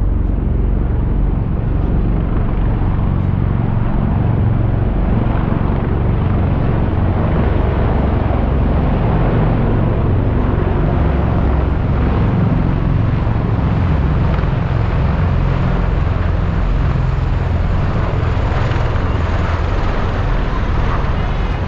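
Aircraft engine noise: a loud, steady roar that holds at an even level without rising or falling.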